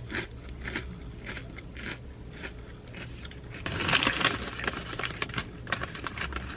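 A person chewing a mouthful of crunchy tortilla chips with the mouth closed: irregular crisp crunches, busiest about four seconds in.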